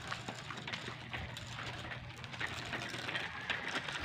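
Outdoor background noise while walking, with irregular light scuffs and rustles over a faint steady low hum.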